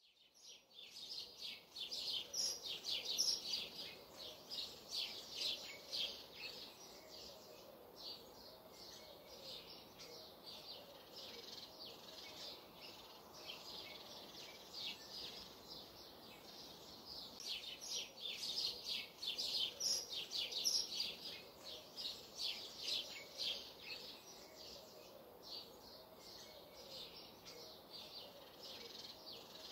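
Garden birdsong: many small birds chirping rapidly and high, busiest in two bouts near the start and about two-thirds through, with a fainter, lower repeated call beneath.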